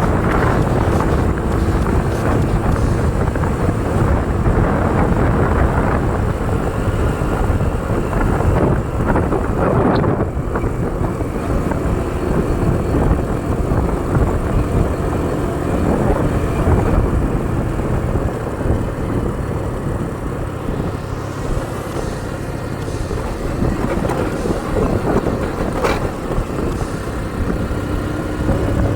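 Motorcycle running while riding along, a steady low rumble of engine and road noise, with a couple of brief sharp sounds partway through.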